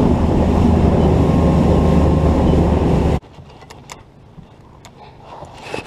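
Bass boat outboard motor running at speed, a loud steady drone with rushing wind and water noise, that cuts off abruptly about three seconds in. After it, a quieter stretch with a few sharp clicks.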